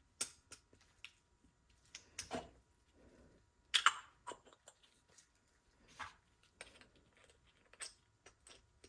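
Scattered small clicks and taps of metal carburetor parts being handled and fitted during reassembly, the loudest about four seconds in.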